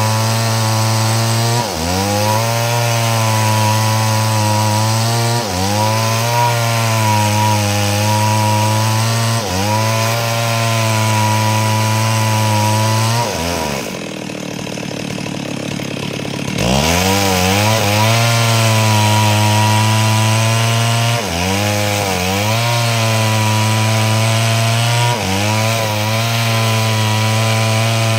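Stihl two-stroke chainsaw running under load, ripping a log lengthwise into planks; the engine pitch sags and recovers about every four seconds. Near the middle it drops to a lower speed for a couple of seconds, then revs back up.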